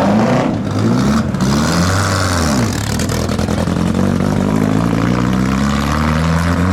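Car engine revving as it pulls away, its pitch rising and falling several times in the first three seconds, then climbing slowly and steadily.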